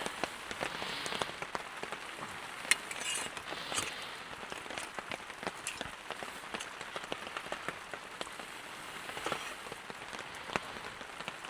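Steady rain falling, with many single drops striking a nearby surface as sharp ticks; the loudest strike comes about two and a half seconds in.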